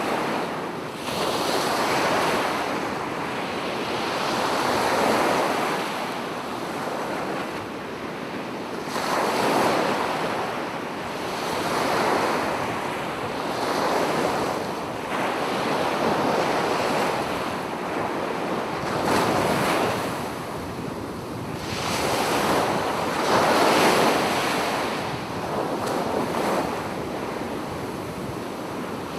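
Sea waves breaking on a beach, the surf swelling and falling back every few seconds.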